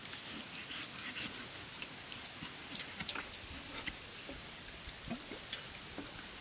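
Steady rain falling, with many small, irregular drop ticks.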